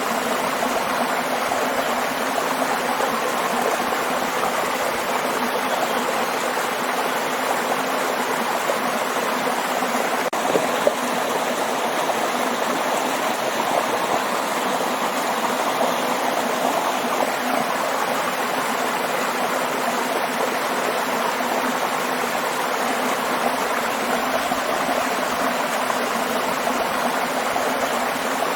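Waterfall: a steady, even rush of falling water with no rise or fall in level.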